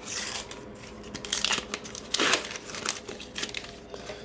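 Paper sticker-pack wrapper crinkling as it is handled and torn open, in several short rustles.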